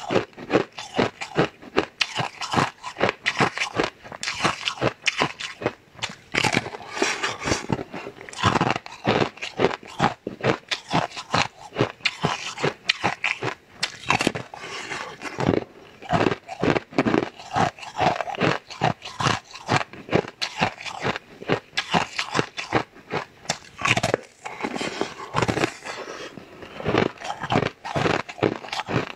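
Close-miked eating of a thin, glossy purple food: dense, irregular crunching and crackling clicks of biting and chewing, with wet mouth sounds.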